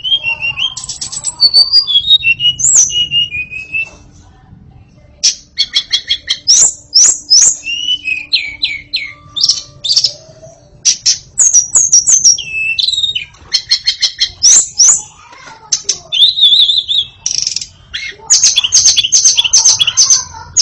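White-rumped shama (murai batu) singing loudly: varied high whistled phrases, fast repeated notes and sharp clicking notes, in bursts with short pauses between them.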